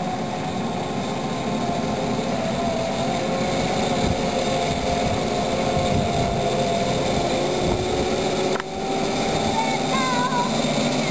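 Backyard ride-on railroad train running steadily along the track: a mechanical hum with a wavering drone and track noise, broken briefly about two-thirds of the way through.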